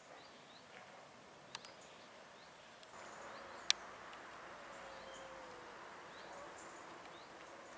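Faint outdoor ambience with scattered small bird chirps and a couple of sharp clicks.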